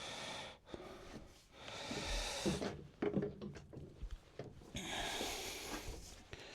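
Wooden workpieces being handled, with three stretches of rubbing or scraping of about a second each and light knocks in between.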